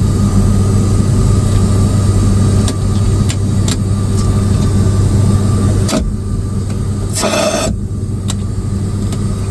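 Steady low drone of an ATR 72-600 turboprop in flight, heard inside the cabin, with a few light clicks and a brief hiss a little after seven seconds.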